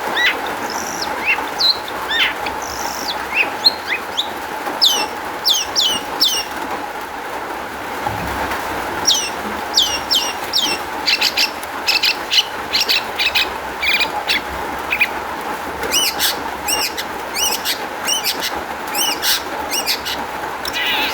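Long-tailed shrike (cendet) singing a rapid, varied song of short, sharp, downward-sweeping notes in quick runs, over a steady background hiss.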